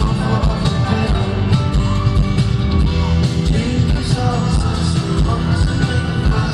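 Live pop/R&B concert music: a singer's voice over a full band mix with heavy bass, heard through a concert sound system.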